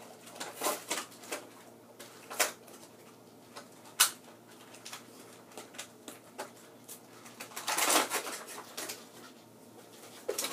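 Toy box packaging being handled and unpacked: scattered light clicks and rustles, a sharp click about four seconds in, and a longer rustle around eight seconds in.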